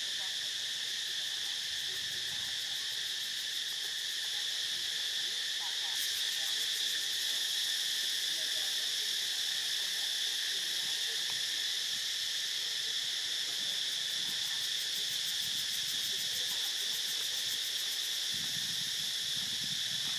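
Dense insect chorus, such as cicadas, droning steadily on several high pitches at once, with a faster, finely pulsing high layer joining in about six seconds in and dropping out near the end.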